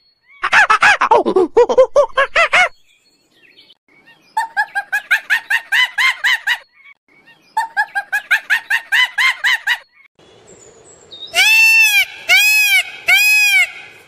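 Three bouts of rapid, pitched, pulsed calls, about nine pulses a second, then three loud green peafowl calls, each rising and falling in pitch.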